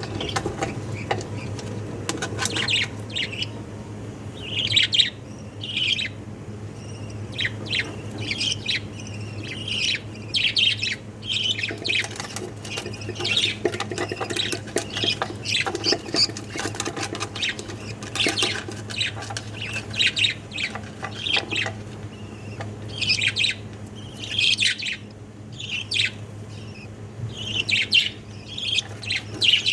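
Jumbo budgerigar chicks chirping and squawking: many short, high calls in quick, irregular runs, over a steady low hum.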